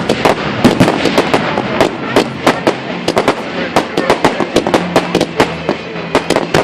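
Fireworks going off in quick succession: a dense, irregular string of bangs and crackles, several a second, overlapping one another.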